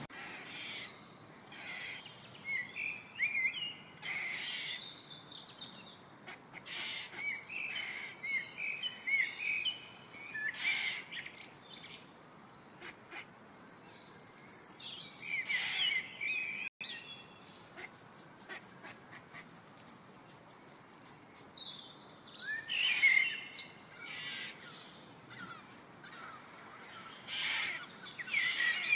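Birds singing and chirping: a stream of short, quick calls and warbled phrases, with a lull in the middle and another busy spell near the end.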